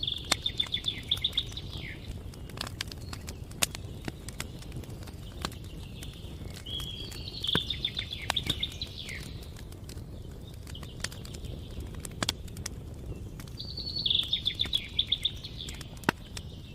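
Campfire crackling, with scattered sharp pops over a steady low rumble. A songbird sings the same short, fast trill three times, about six seconds apart; each phrase ends in a quick downward slur.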